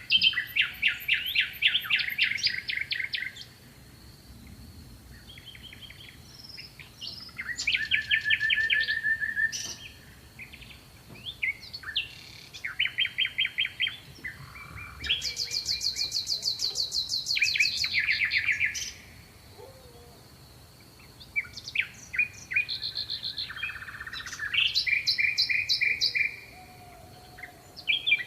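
Small songbird singing: phrases of rapid trills and chirps, each one to four seconds long, with short pauses between them.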